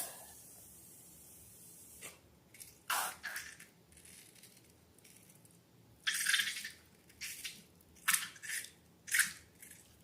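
Slime being squeezed and worked by hand: a series of short, wet, sticky squelches, irregularly spaced and bunched in the second half.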